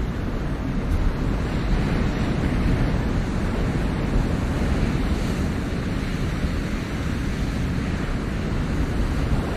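Ocean surf washing on a shore: a steady, dense rush with a deep low rumble that swells and eases slightly as the waves come in.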